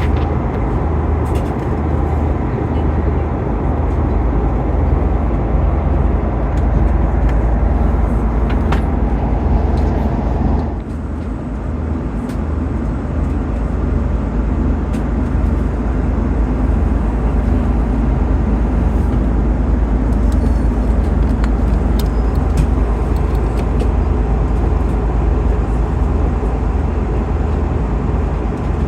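Steady low rumble of an Airbus A330-200 airliner cabin: engine and airflow noise. It drops a little in level and loses some of its upper hiss about ten seconds in.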